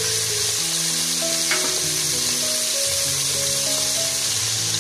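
Browned onions frying in ghee in a pot, a steady sizzle and bubble as red chilli powder and salt go in. Soft background music plays under it.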